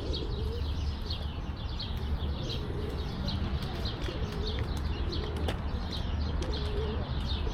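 Small birds chirping, quick high calls about two a second, with a pigeon's low cooing rising and falling several times underneath, over a steady low rumble.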